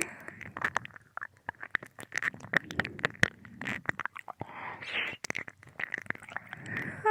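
Wet mouth sounds of ASMR ear-licking close to a binaural microphone's ear: irregular tongue clicks, lip smacks and slurps, with a breathy exhale about five seconds in.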